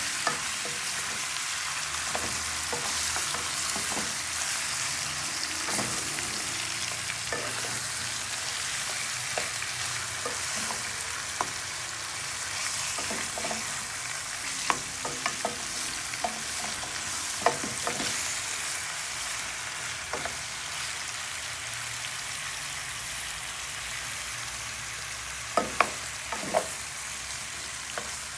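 Chicken pieces frying in hot oil with curry in a pot, a steady sizzle, with scattered clicks and a few sharper knocks of a utensil stirring against the pot.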